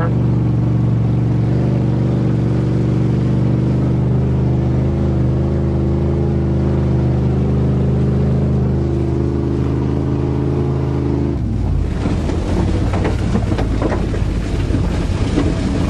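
1988 Chevrolet pickup's engine pulling steadily under throttle, heard from inside the cab. About eleven seconds in the engine note drops away suddenly and wind and rattling road noise take over.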